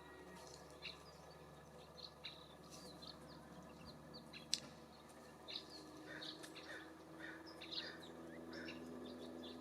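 Faint, scattered short chirps and call notes from small songbirds, coming more thickly in the second half, with one sharp tick about four and a half seconds in.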